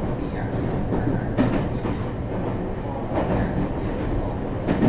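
Meitetsu 3500 series electric train (IGBT-VVVF inverter) running along, heard from inside the car: a steady rumble of wheels on rail, with a few sharp clicks from rail joints.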